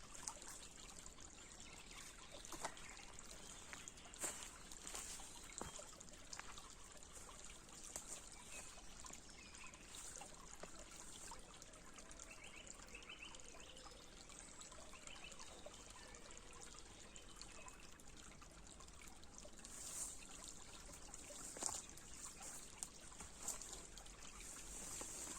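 A small stream trickling faintly, with a few faint bird chirps in the middle.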